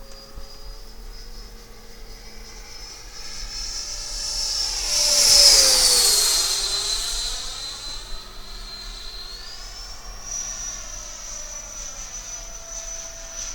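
Electric ducted-fan model jet whining as it flies past: the whine swells, is loudest about five seconds in and drops in pitch as the jet passes, then steps up in pitch about ten seconds in.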